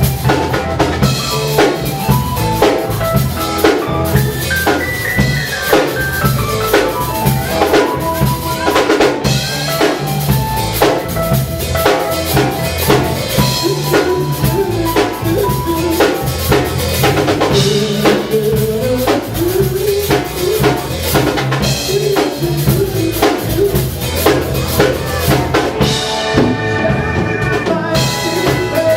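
A live rock band playing, with the drum kit prominent and steady drum strikes under a melodic instrumental line.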